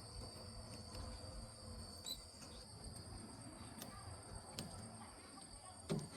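Faint, steady high-pitched insect trilling, like crickets, with a few light clicks and a short dull thump near the end.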